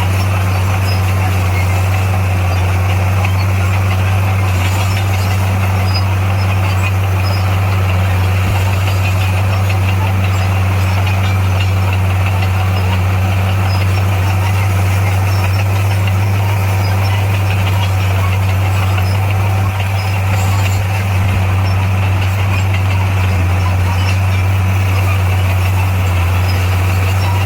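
Bulldozer's diesel engine running at steady revs, a constant low drone, with a slight dip about twenty seconds in.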